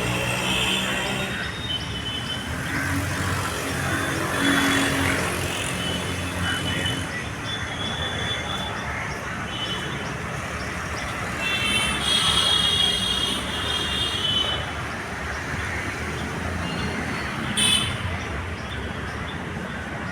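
Steady road traffic noise with vehicle horns honking, the longest honking about twelve seconds in and a short toot near the end.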